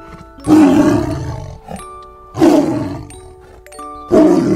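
Tiger roaring three times, about two seconds apart; each roar starts abruptly and trails off falling in pitch. Soft chiming music plays underneath.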